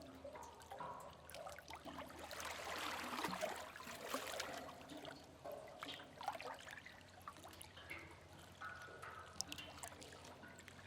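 Sea cave ambience: water dripping and trickling, with short plinking drips scattered throughout. About two seconds in, a wash of water swells up and splashes for a couple of seconds before falling back.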